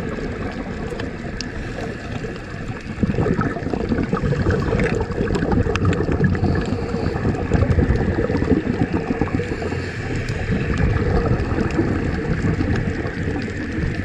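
Running water rushing and gurgling steadily.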